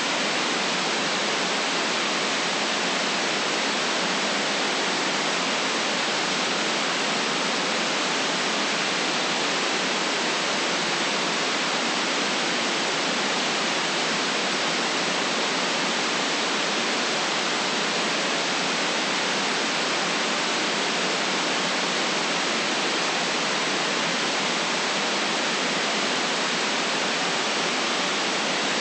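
Steady electronically generated white noise: an even, unchanging hiss with no rise, fall or rhythm.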